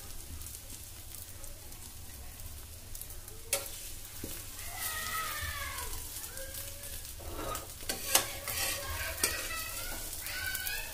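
An egg omelette sizzling as it fries in oil in a flat pan, giving a steady hiss, with a few sharp clicks partway through.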